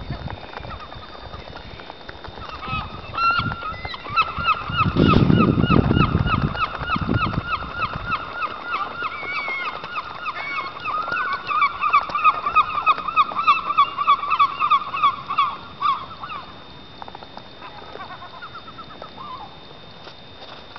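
Birds calling in a long, fast run of short repeated calls, several a second, that dies away about three-quarters of the way through. A low rumble rises over the calls a few seconds in.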